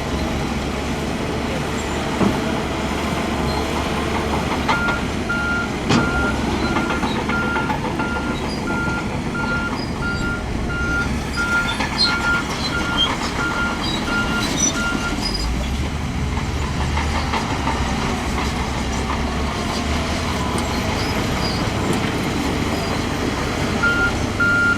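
Heavy earthmoving machine's diesel engine running steadily, with its reversing alarm beeping about one and a half times a second for some ten seconds, starting about five seconds in, then again near the end. A few sharp knocks.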